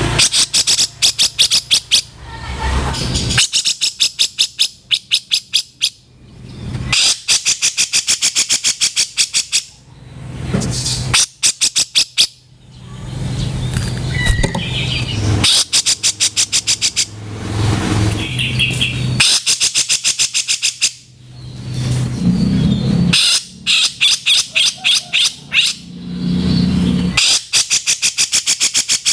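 Cucak jenggot (grey-cheeked bulbul) giving its harsh, rough chattering calls in repeated bursts of two to three seconds. Each burst is a fast rattle of sharp notes, about ten a second.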